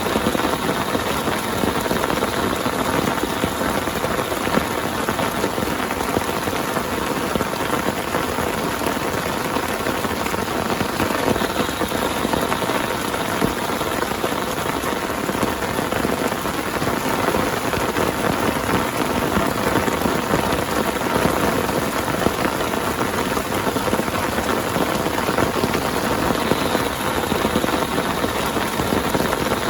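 Heavy rain pouring down steadily and without a break, countless drops striking a surface.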